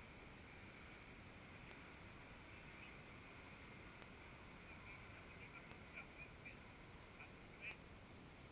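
Near silence: a faint steady hiss, with a few brief faint ticks about six to eight seconds in.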